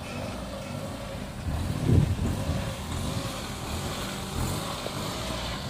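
Small Toyota hatchback's engine running at low speed during a slow parking manoeuvre, with a brief louder surge about two seconds in.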